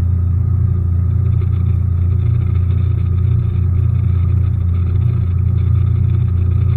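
Bass boat's outboard motor running at a steady speed, a constant low rumble.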